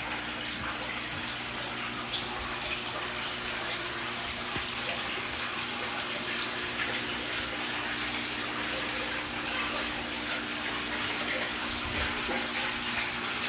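Aquarium water running and splashing steadily, with a low steady hum underneath.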